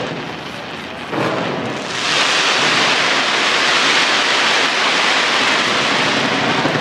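Fireworks fired from the skyscraper overhead. There is a bang about a second in, then a dense, steady crackling hiss of many effects going off at once from about two seconds on.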